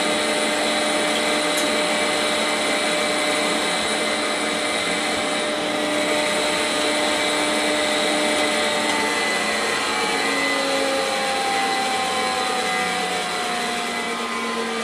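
Quantel Paintbox graphics computer and its peripherals running after power-up: a steady whir of cooling fans and drives with several steady tones in it, one of which slowly falls in pitch near the end.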